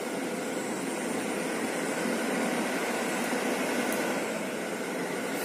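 A steady mechanical drone with a constant hiss, swelling slightly around the middle.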